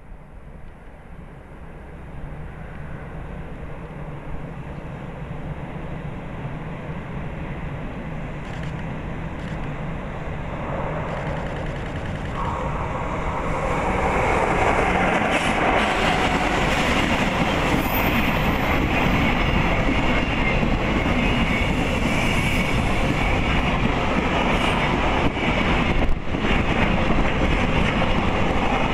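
JR Freight EF66 electric locomotive hauling a container freight train, growing steadily louder as it approaches and passing about halfway through. The container wagons' wheels then run past on the rails, loud and steady, with one sharp knock near the end.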